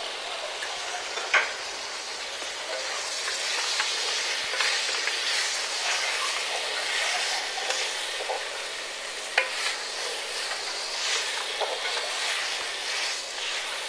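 Chicken and freshly added curry leaves frying in spice masala in a metal pot, sizzling steadily while a wooden spatula stirs and scrapes them round; the masala is being roasted (bhuna). A couple of short sharp clicks of the spatula against the pot stand out.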